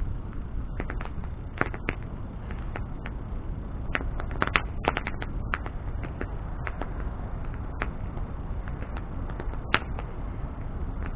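Wood bonfire burning, crackling with irregular sharp pops over a steady low rushing noise of the fire. There is a flurry of pops about halfway through and one loud pop near the end.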